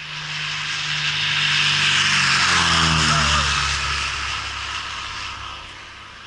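A Cessna single-engine propeller plane flies past. Its engine sound swells to a peak about three seconds in, drops in pitch as it passes, then fades away.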